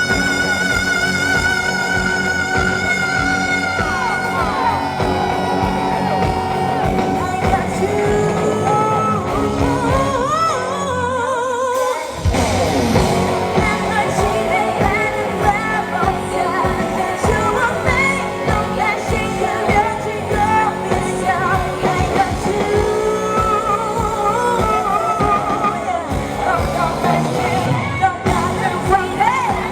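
Live pop-rock band with a female lead vocalist: a long held note with vibrato at the start, then sung melody over the full band, which drops out briefly about 12 seconds in before coming back in. The live sound is recorded loud and distorted.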